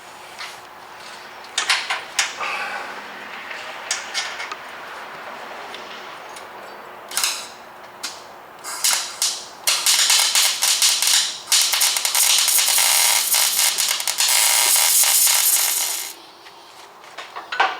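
MIG welder striking an arc on steel plate and truck frame: a few short sputters, then a long crackling, sizzling weld of several seconds that stops suddenly. The plate is being tacked onto the frame over a wobbled-out shock bolt hole.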